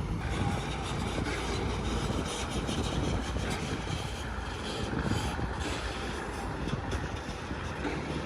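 Heavy diesel construction machinery running steadily, a deep engine rumble with a rough hiss and faint clatter.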